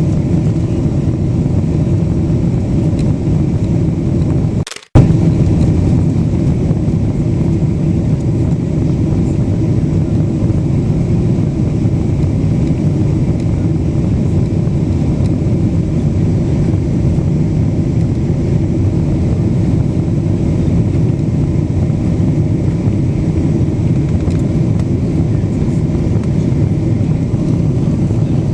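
Steady cabin roar of a Boeing 777-200 airliner in flight: engine and airflow noise, strongest at the low end. The sound cuts out for a moment about five seconds in and comes back with a sharp click.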